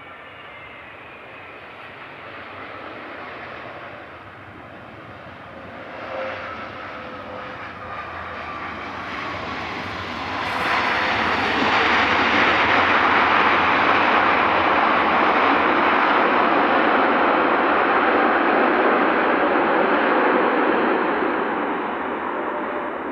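Jet airliner's engines passing close: a whining roar that swells to its loudest about ten seconds in, holds for about ten seconds, then begins to fade.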